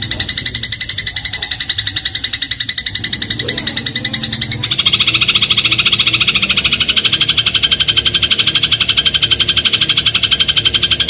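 Eurasian tree sparrow giving a loud, rapid rattling chatter of evenly repeated notes. About four and a half seconds in, the chatter switches to a lower-pitched version.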